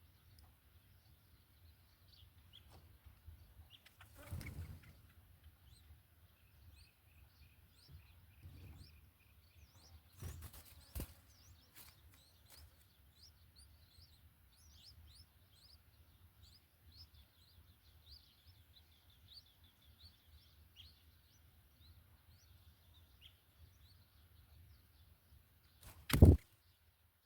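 Small birds chirping faintly in quick, short high notes throughout, with a few soft knocks and one loud sharp thump near the end.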